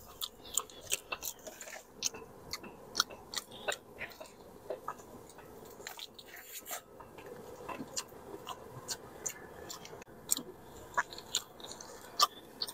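Close-miked mouth sounds of a person chewing a handful of rice and adobo chicken liver: an irregular run of small smacking clicks.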